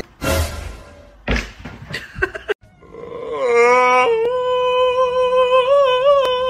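A few knocks in the first couple of seconds, then a tabby cat gives one long meow. The meow rises at the start, then holds with slight wavers for about four seconds.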